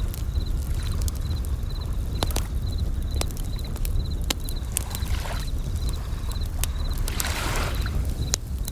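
Layered nature ambience: Japanese bell crickets (suzumushi) chirping in short, evenly repeated trills, sharp crackles and pops from a campfire, and waves washing in twice over a steady low rumble of surf.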